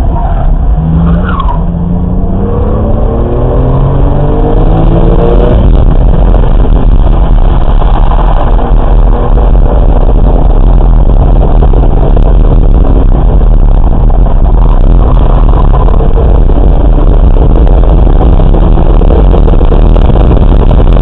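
Car engine heard from inside the cabin during track driving, rising in pitch under hard acceleration over the first few seconds, then running loud and steady at speed with heavy wind and tyre noise, climbing again faintly near the end.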